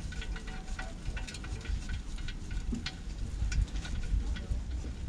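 Irregular light clicks and taps over a low rumble.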